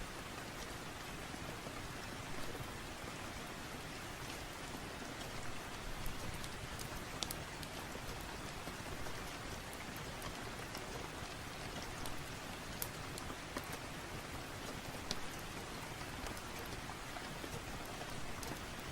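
Steady rain falling, an even hiss with occasional sharp ticks scattered through it.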